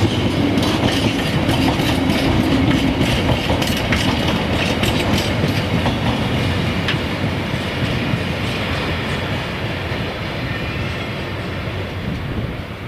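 Wagons of an engineers' freight train rolling past, the wheels clicking over the rail joints, the sound easing away over the last few seconds.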